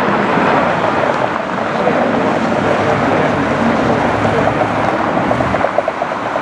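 Loud, steady rushing roar of a vehicle in motion, with a faint wavering tone running through it.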